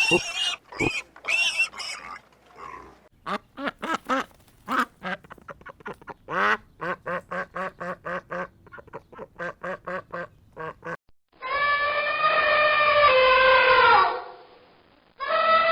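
Ducks quacking: a rapid run of short, evenly repeated quacks, about two or three a second. Near the end come long, drawn-out calls from another animal, falling in pitch as each one ends.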